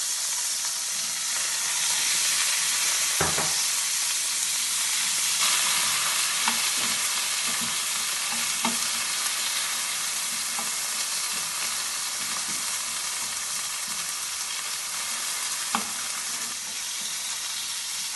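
Bell pepper strips sizzling steadily in hot oil in a nonstick frying pan, with a few short clicks of metal tongs against the pan as the strips are turned.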